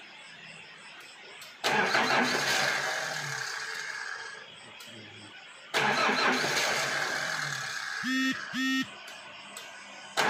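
An engine run in short bursts: twice it starts suddenly and loud, then fades away over about three seconds. Near the end come two short steady tones, one right after the other.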